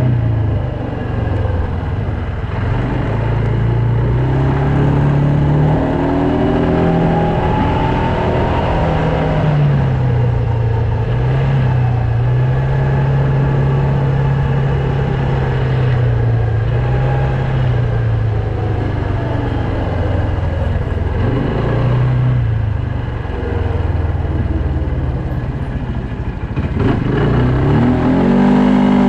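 Loncin X-Wolf 300 quad bike's engine running under way, its revs rising and falling with the throttle, and climbing again near the end.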